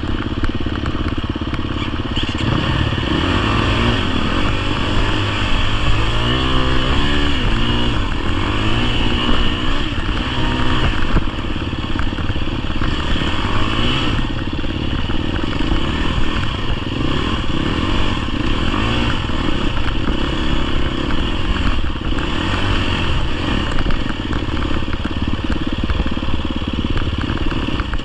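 GasGas EX250F enduro bike's 250cc single-cylinder four-stroke engine running under way, its pitch rising and falling as the throttle is worked, mostly in the first third.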